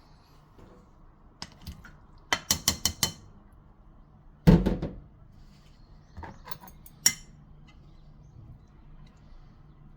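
Kitchenware being handled, clinking and knocking: a quick run of about five clinks a couple of seconds in, one heavier knock about halfway through, then a few lighter clinks.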